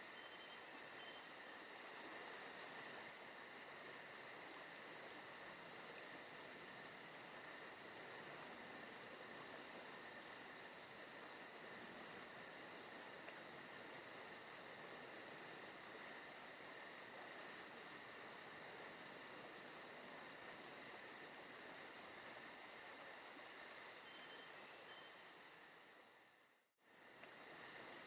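Forest ambience of crickets and other insects chirring steadily and softly over a faint hiss. Near the end it fades out to a moment of silence and then resumes at once, like the seam of a looped recording.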